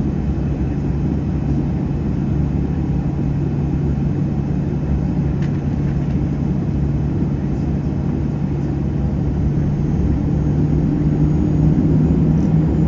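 Cabin noise inside a Boeing 737-800, its CFM56-7B jet engines running with a steady low rumble and hum. Near the end the hum edges slightly higher and louder.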